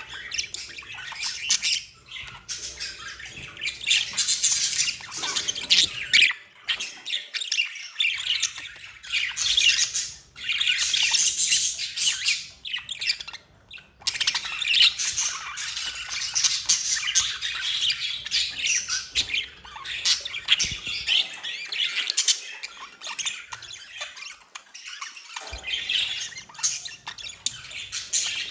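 Budgerigars warbling and chattering almost without a break, a busy stream of scratchy squawks and chirps, pausing briefly a couple of times.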